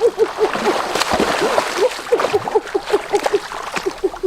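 Frog calling in a rapid series of short notes, about four or five a second, over splashing water.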